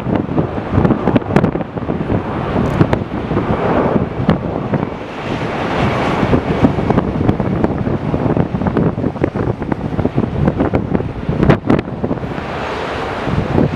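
Strong, gusty wind buffeting the microphone in loud, uneven blasts. Underneath is a jet airliner's engine noise with a faint, thin high whine that drifts slightly in pitch.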